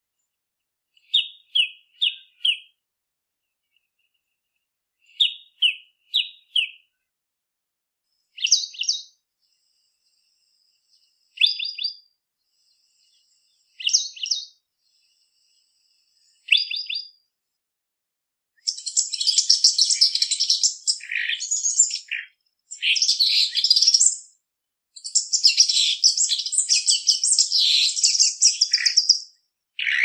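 Recorded bird calls: first a scarlet-chested sunbird giving short, sharp high call notes in groups of two or three, repeated with pauses. About two-thirds of the way in, a different bird takes over with a fast, near-continuous high chattering song.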